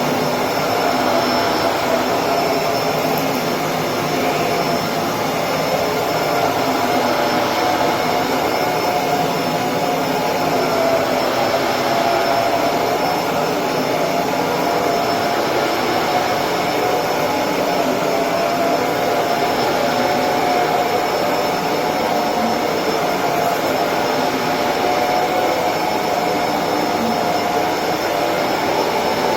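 Electrolux Precision bagless upright vacuum cleaner running steadily while vacuuming, an even rushing noise with a motor whine that wavers slightly in pitch.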